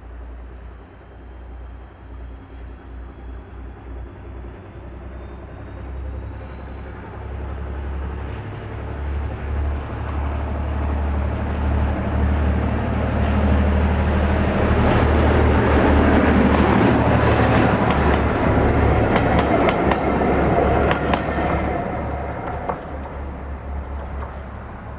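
A diesel-locomotive-hauled train passing by. The engine note builds for about fourteen seconds and is loudest over the middle stretch, where the wheels clatter rapidly over the rail joints. Then it fades away near the end.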